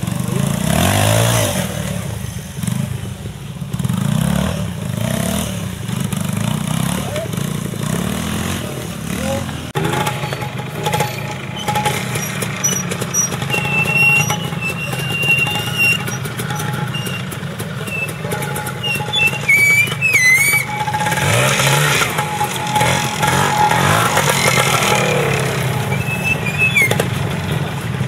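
Trials motorcycle engine revving in short bursts as the bike picks its way up a rocky climb. The revs rise and fall near the start and again about two-thirds of the way through, over a steady low engine note.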